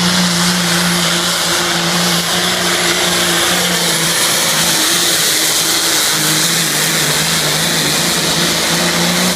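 Diesel pulling tractor's engine running flat out under full load as it pulls the sled, a loud, steady high-rev note.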